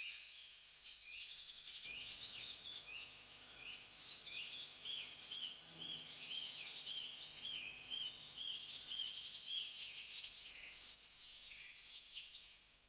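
Several birds calling together, a mix of chirps and whistles, with one bird repeating a short note over and over in the middle, over a faint steady background hiss.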